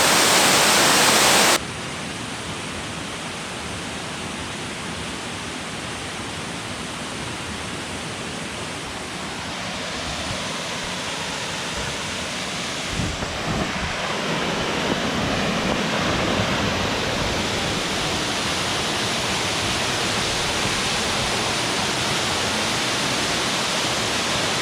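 Waterfall rushing: a steady rush that drops abruptly to a quieter level about a second and a half in, then slowly grows louder again.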